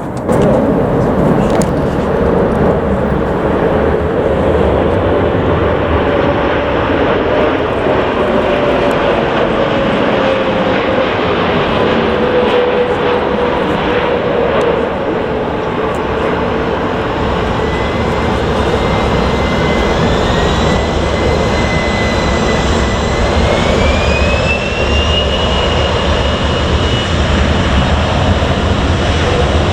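Jet airliner engines running loud and steady, with a deep rushing noise; in the second half a high whine climbs in pitch and then holds.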